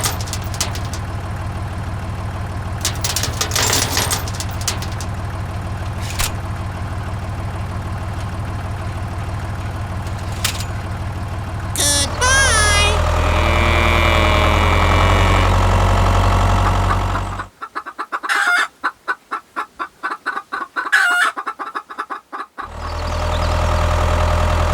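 A small engine runs with a steady low hum. About halfway through, chickens cluck and call over it, then there is a choppy stretch of rapid clucking before the engine hum returns near the end.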